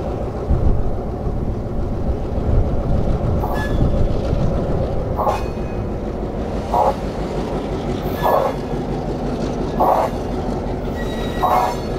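Slow-moving diesel-hauled passenger train: a steady low engine rumble, with a sharp metallic wheel-on-rail clank about every second and a half from a few seconds in.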